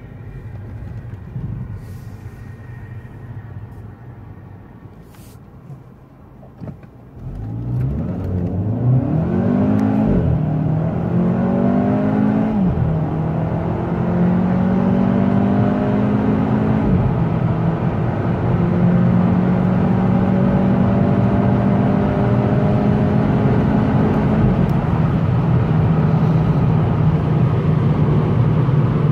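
Volkswagen Scirocco 1.4 TSI (160 PS) engine heard from inside the cabin, running at low revs as the car rolls slowly, then going to full throttle about seven seconds in. The engine note climbs steeply and drops back at each quick DSG upshift, four times, then holds a steady high drone at motorway speed.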